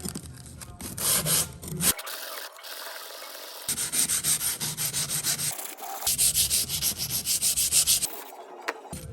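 Scissor blade rubbed by hand against an abrasive in quick back-and-forth strokes, about five a second. The rubbing comes in separate runs with short breaks.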